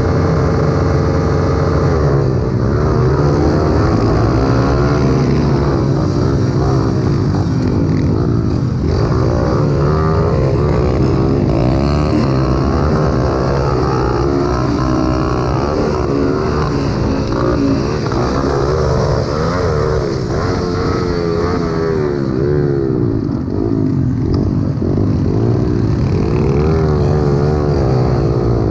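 Several small single-cylinder pit bike engines racing together, their pitches rising and falling constantly as riders throttle on and off around the track.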